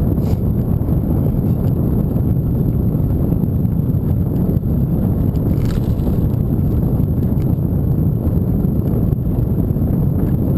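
Steady low wind rumble buffeting the microphone while riding, with a few faint ticks.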